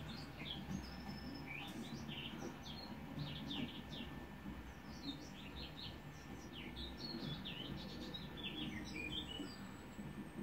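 Birds chirping and twittering in many quick, short calls, over a steady low rumble.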